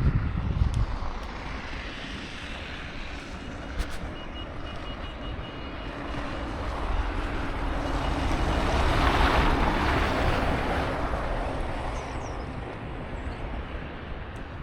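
A vehicle passing on a snow-covered street: its tyre hiss builds to a peak about nine seconds in, then fades away. Wind buffets the microphone throughout, and a faint high beeping sounds from about four to seven seconds in.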